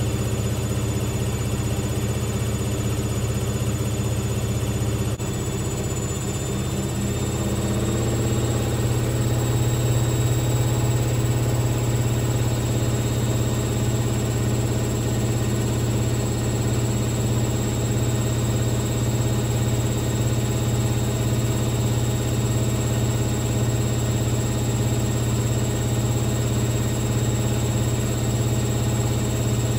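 Hoover VisionTech VTS715D21X washing machine on a spin, its motor and drum whirring steadily. About five seconds in, the spin speeds up over a couple of seconds and then holds, with a squeal that is put down to the suspension struggling.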